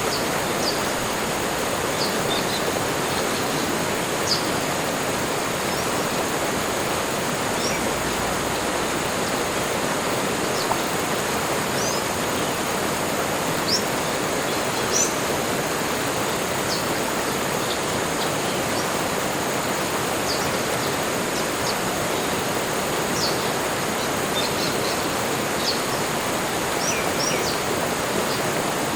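Forest soundscape: a steady rushing noise like running water, with short, high bird chirps scattered throughout.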